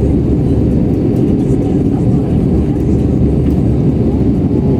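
Airbus A320 cabin noise in the climb after take-off: a steady, loud low rumble of the jet engines and airflow, heard from inside the passenger cabin.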